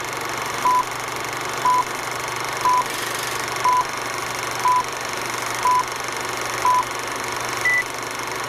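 Countdown-style intro sound effect: a steady hiss with a short beep once a second, seven beeps in all, ending on a single higher-pitched beep near the end.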